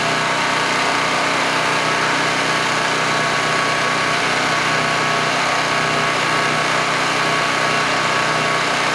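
Small gasoline engine of a portable generator running steadily at constant speed, with no change in pitch or load.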